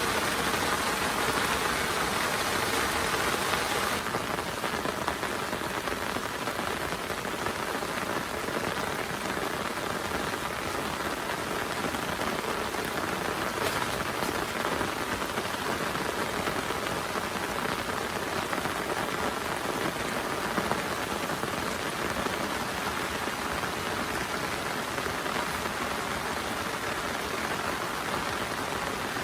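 Heavy rain falling steadily, an even hiss of drops with no let-up; its tone dulls slightly about four seconds in.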